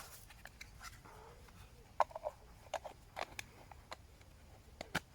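Irregular light clinks and knocks of metal camping cookware and a utensil being handled, loudest about two seconds in and again near the end.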